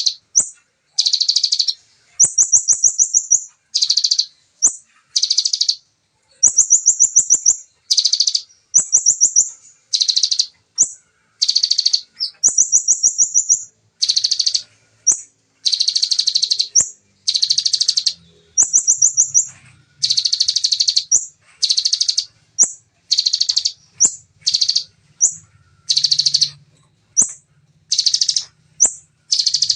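Bar-winged prinia (ciblek) singing its rapid 'shooting' song: fast, tightly trilled high-pitched phrases, each under about a second and a half, repeated one after another with short gaps.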